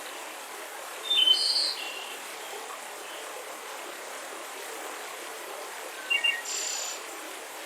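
Birds chirping in two short bursts of high calls, one about a second in and one around six seconds in, over the steady rushing of a mountain river.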